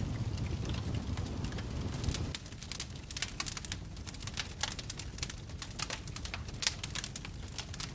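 Wood fire crackling in a fireplace: many sharp pops and snaps over a low rumble of the flames, which drops away about two seconds in, leaving the crackles clearer.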